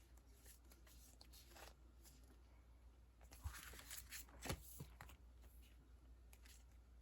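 Faint rustling and crinkling of sticker sheets and their plastic packaging being handled, busiest about halfway through with a few light knocks.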